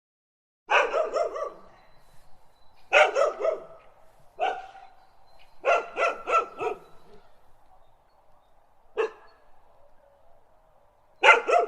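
Dog barking in repeated bursts of one to four quick, sharp barks, with short pauses between the bursts.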